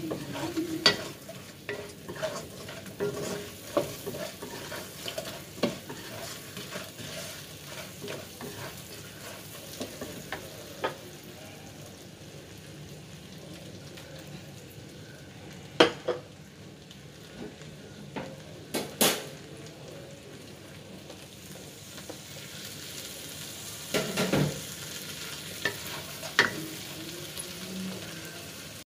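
Prawns frying and sizzling in a stainless steel wok as a wooden spatula stirs and scrapes them. Occasional sharp knocks run throughout, with a few louder ones past the middle.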